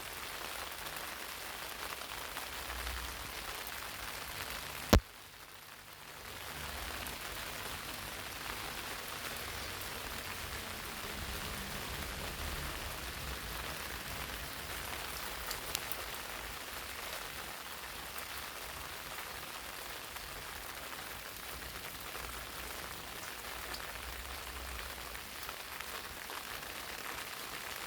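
Rain falling on eggplant leaves: a steady patter of drops. A single sharp click about five seconds in, followed by a brief dip in the rain sound.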